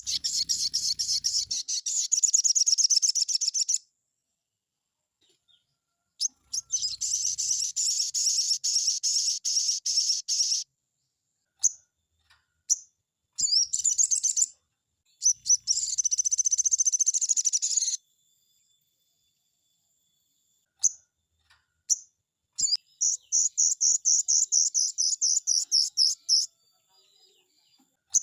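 Sogon bird singing its fast 'nembak' song: four long bursts of rapidly repeated high notes, each a few seconds long, separated by pauses with single short chirps.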